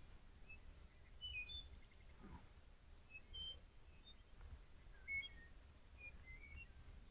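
Faint wild birdsong: scattered short chirps and brief whistled notes, some in quick runs, over a low steady rumble.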